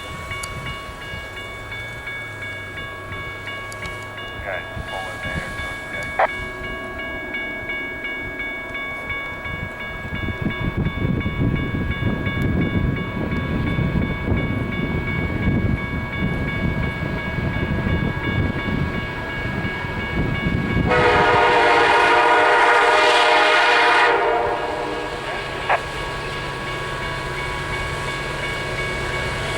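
Level-crossing warning bell ringing steadily, with a vehicle rumbling past through the middle of the stretch. About 21 seconds in, an approaching diesel locomotive's horn sounds one loud chord for about three seconds, and it starts again right at the end, blowing for the crossing.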